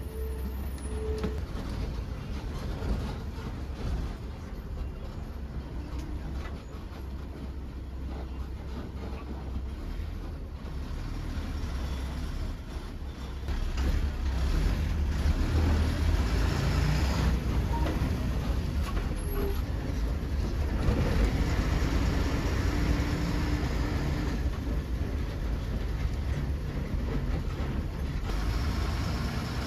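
Long-distance KSRTC bus on the move, heard from inside the cabin: a steady engine and road rumble that gets louder about fourteen seconds in.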